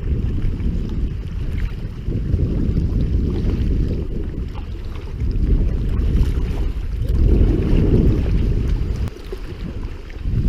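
Wind buffeting the microphone: a loud low rumble that swells and dips, strongest about seven to eight seconds in, easing off sharply about a second later.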